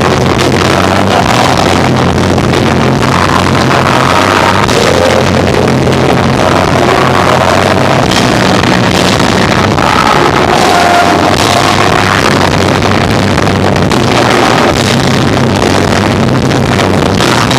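Live rock band with electric guitar, bass and drums playing loud, recorded so hot that it overloads into a dense, distorted rumble dominated by the bass.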